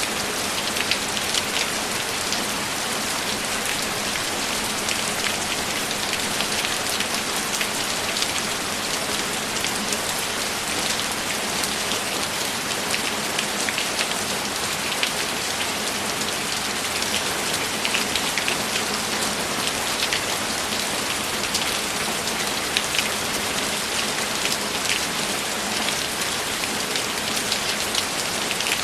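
Steady rain falling, a dense even hiss scattered with individual drop impacts.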